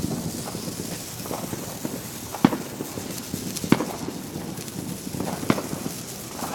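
Fireworks going off: a handful of sharp, separate bangs, the loudest about two and a half, three and a half and five and a half seconds in, with fainter pops between, over steady outdoor background noise.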